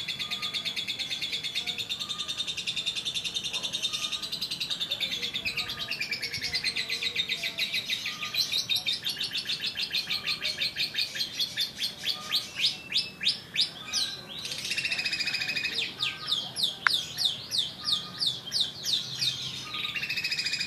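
Lovebird singing a long, unbroken chatter of rapid high chirps that runs through without a pause, turning into slower, more spaced swooping notes about twelve seconds in.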